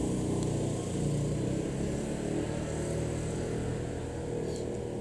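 A road vehicle's engine running nearby, a steady low rumble that eases off slowly as it passes.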